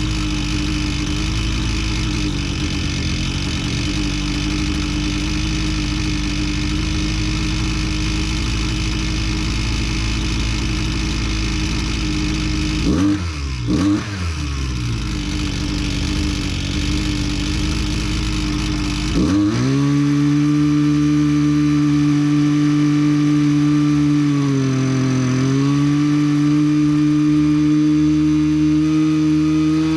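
Husqvarna 129L string trimmer's two-stroke engine running at a steady speed. Its pitch briefly drops and climbs again partway through, then settles at a new steady speed with a short dip near the end. The engine now runs after the loose intake insulator block was fixed.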